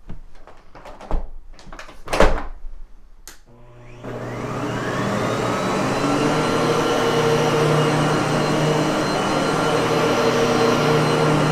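A few clicks and knocks, the loudest a thump about two seconds in. Then, about four seconds in, a Miele vacuum cleaner's motor switches on, spins up with a rising whine and runs steadily.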